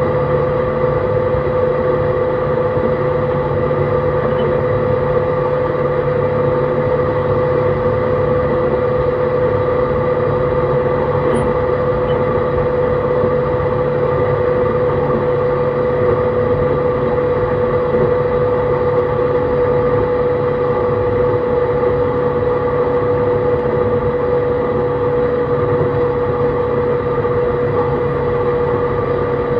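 JR East E131-600 series electric train running at a steady speed, heard from inside the car: a constant rumble of wheels on track with a steady inverter-and-motor whine made of several held tones, the strongest one low and clear.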